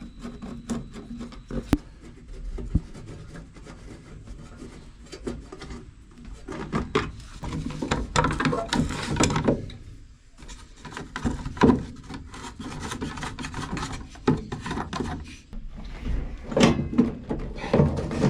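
Hands working apart an old backhoe's ignition key switch: rubbing and scraping with scattered clicks as parts are pulled off. The scraping comes in two louder spells, one about halfway through and one near the end.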